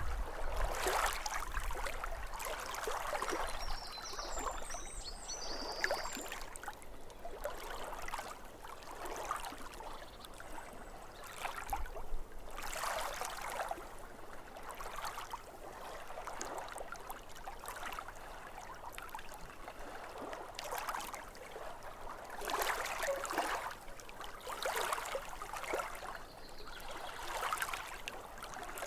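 Lake water lapping at the shore in irregular small splashes every second or two. A bird chirps briefly about four seconds in.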